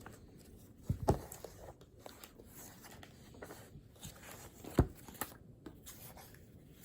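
Handling noises at a study desk: a couple of sharp knocks, about one second in and just before five seconds, with scattered small clicks and faint rustling between.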